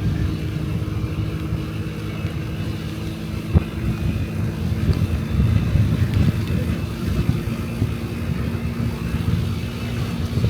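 Honda Dio Cesta AF68 50cc four-stroke scooter engine running steadily while riding downhill, with heavy wind rumble on the microphone. A single brief knock about three and a half seconds in.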